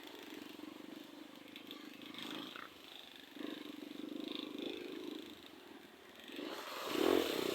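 Off-road motorcycle engine idling with a steady low pulsing, getting louder briefly near the end.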